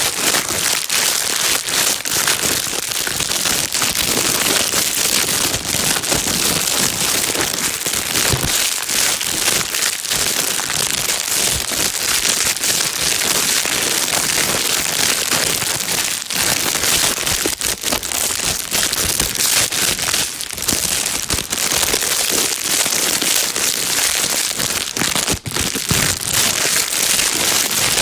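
Plastic bag being crumpled and rustled continuously: a dense, steady, high crinkling with many small irregular crackles.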